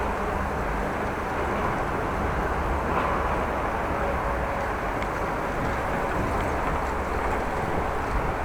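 Steady rushing of wind over the microphone during a bicycle ride, an even noise with no distinct events.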